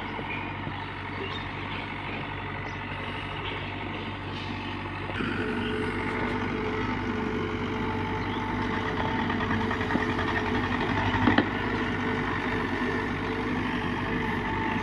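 Backhoe loader's diesel engine running steadily, then working harder about five seconds in. A sharp knock sounds around eleven seconds in.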